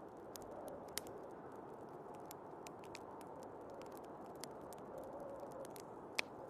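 Wood fire crackling with many small scattered pops, two sharper ones about a second in and near the end, over a steady low rush of snowstorm wind.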